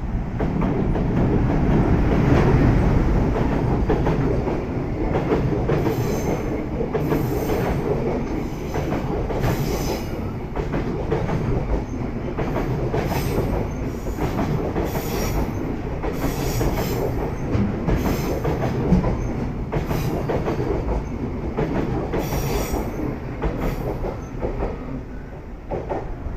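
EF510 electric locomotive hauling an express container freight train through the station at speed. There is a loud rumble as the locomotive passes about two seconds in, then the long line of container wagons rumbles by with high wheel squeaks and clacks coming every second or so. The sound drops away near the end.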